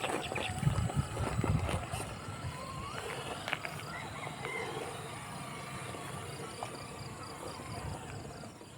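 1/10-scale RC rock crawler climbing over loose rocks: a few sharp knocks of tires and chassis against rock in the first two seconds, then the electric drive motor whining up in pitch about three seconds in.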